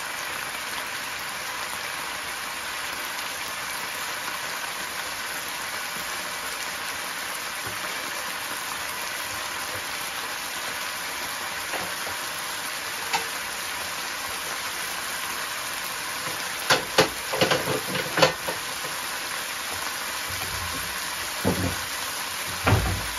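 Diced pork cooking in a wok of oil and its own juices: a steady sizzle with a fine crackle. A quick run of sharp clicks comes about three-quarters of the way through, and a couple more near the end.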